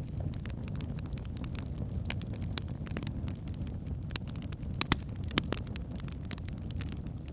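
Wood fire burning in a fireplace: a steady low rumble of flames with irregular sharp crackles and pops from the logs, two louder pops about five seconds in.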